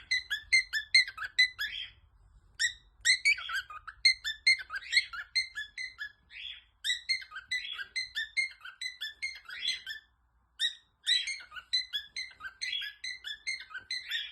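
A bird chirping in quick, irregular runs of short high notes, with brief pauses between the runs and one clear gap about ten seconds in.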